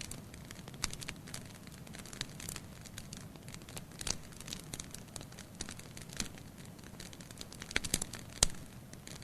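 Wood fire burning in a fireplace: irregular crackles and sharp pops of the burning firewood over a steady low rush, with the loudest pops near the end.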